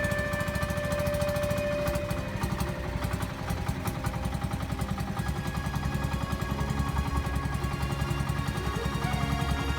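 Pump boat's single inboard engine running steadily, a fast even chugging pulse.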